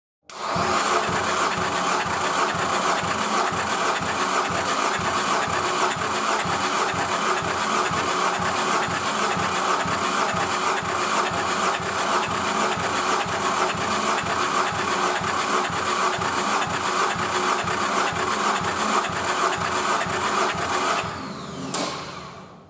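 Nissan QR25DE 2.5-litre four-cylinder engine running steadily on a test stand, then shut off and spinning down over about a second near the end.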